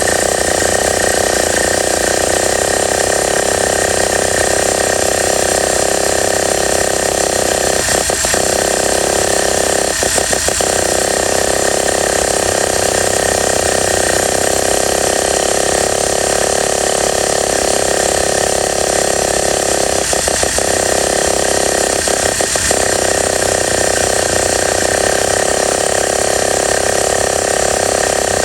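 Enya .15CX 2.45 cc two-stroke glow model engine running steadily and loudly, with a few brief flickers in its note spread through the run.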